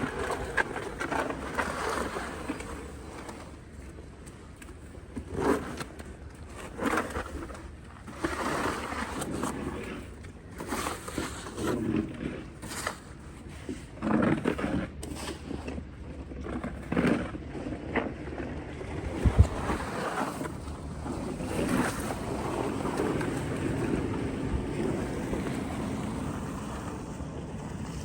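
Snow shovels scraping and pushing snow in repeated, irregular strokes, with one sharp thump about two-thirds of the way through.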